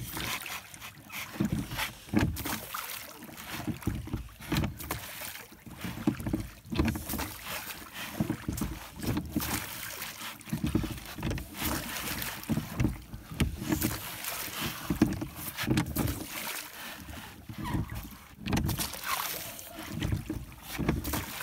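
Oars of a rowboat dipping and splashing in lake water, stroke after stroke, the sound swelling about every two seconds.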